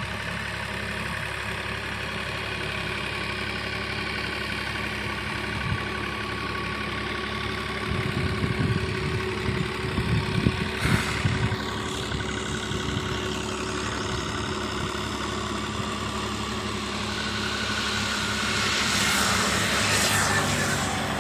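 Universal 533 tractor's diesel engine running steadily under load while puddling a flooded paddy field. There are a few louder knocks about eight to eleven seconds in, and the engine grows louder near the end.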